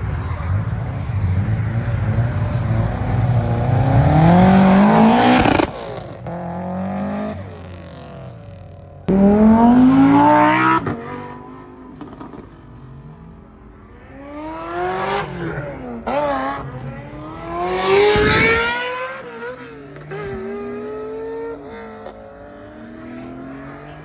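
Car engines revving hard as they accelerate, the pitch climbing steeply and then cutting off abruptly twice, about five and a half seconds in and again near eleven seconds. Several shorter rev-ups and drops follow.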